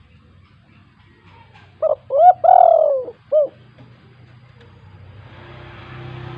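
Spotted dove cooing one phrase: a short note, a quick second note, one long note that rises and falls in pitch, then a short closing note.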